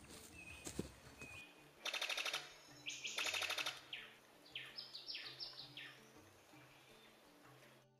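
Wild birds calling: a fast rattling chatter about two seconds in and again a second later, then a run of about six short whistled notes, each falling in pitch.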